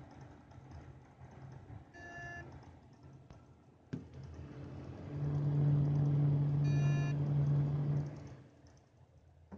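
A short beep, then a steady low buzzing hum that swells up for about three seconds and dies away, with another brief beep during it. The noise comes from a computer fitted with a Cooler Master Seidon 120V liquid CPU cooler. Its owner cannot tell whether it is a fault noise or an alarm, and the CPU temperature climbs to 60° within seconds of power-on.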